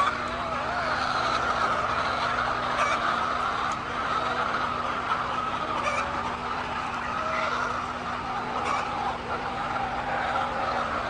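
A large flock of chickens calling all at once, a continuous dense din of overlapping clucks and squawks with a few sharper clicks.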